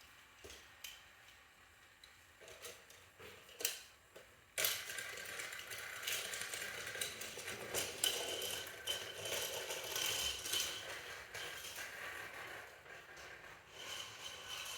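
Motorized Thomas toy train running on plastic track, a steady whirring rattle that starts suddenly about four and a half seconds in, after a few light clicks.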